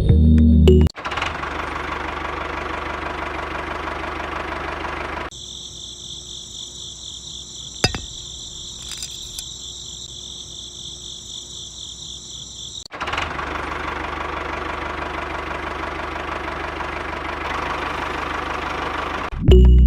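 Small motor of a homemade model tractor and well water pump running with a steady mechanical hum and rattle, in two stretches. Between them comes a quieter stretch of a steady high-pitched buzz, with a single click about eight seconds in. Brief background music at the very start and end.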